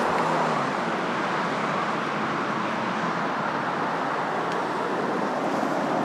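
Steady road traffic noise, an even hiss and rumble with no distinct events.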